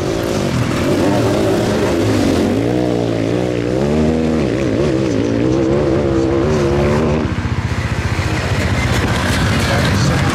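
Sidecarcross outfits' engines racing, their pitch rising and falling as the riders work the throttle. From about seven seconds in the sound turns to a rapid fluttering pulse.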